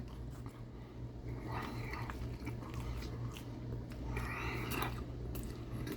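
A man chewing a mouthful of barbecue sandwich, with soft mouth noises and small clicks, over a steady low hum.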